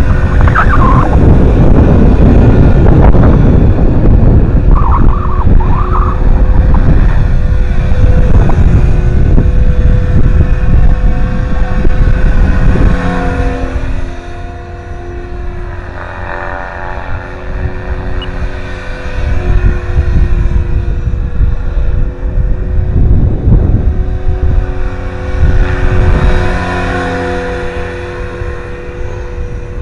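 A 500-size electric RC helicopter in flight: the rotor and motor give a steady hum of several tones that slide up and down in pitch as it manoeuvres. Heavy wind buffeting on the microphone nearly drowns it for the first half, then eases about halfway through.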